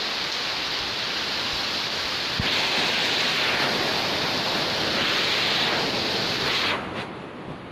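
Heavy storm rain pouring down in a steady hiss that swells twice in the middle and drops off abruptly near the end.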